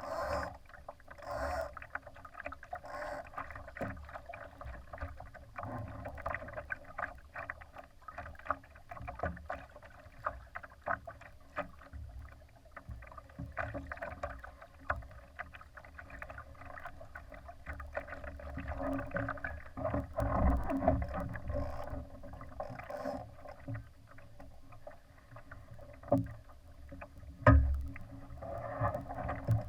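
Water splashing and slapping against the hull of a Laser sailing dinghy under way, in irregular rushes over a low rumble. There is one sharp, loud thump a couple of seconds before the end.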